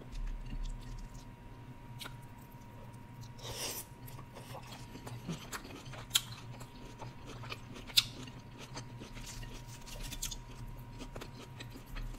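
Close-miked chewing of fried seafood: soft, wet mouth sounds with a few sharp clicks and crunches scattered through, the sharpest about six and eight seconds in.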